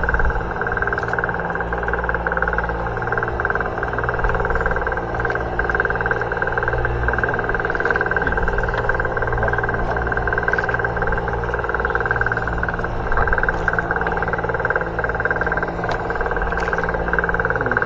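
Steady drone of a boat engine running at a constant speed, an even hum without changes in pitch.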